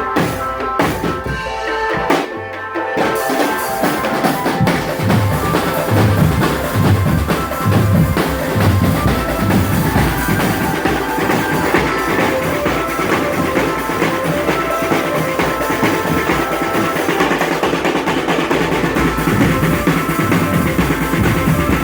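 Marching drum band playing: snare and bass drums under a held melody line. The drumming breaks off briefly a few times in the first seconds, then settles into a steady beat.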